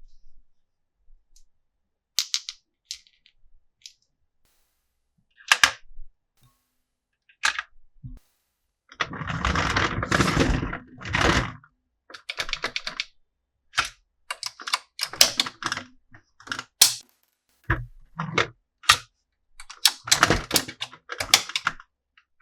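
Toy pieces and packaging being handled during an unboxing, making irregular clicks, taps and snaps. A longer rustling, scraping stretch runs from about nine to eleven and a half seconds in.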